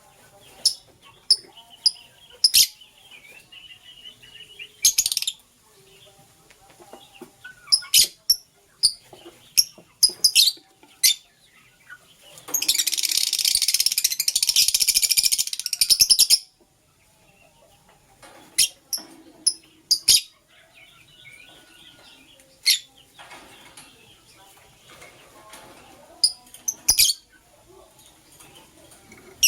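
Lovebirds chirping: short, high-pitched chirps scattered throughout, with a loud burst of rapid, continuous chattering about halfway through that lasts some four seconds.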